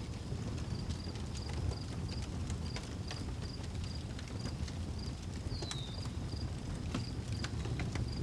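Outdoor wood fire crackling, with irregular sharp pops over a steady low rumble. A cricket chirps steadily, about two chirps a second, and a bird gives one short downward whistle about five and a half seconds in.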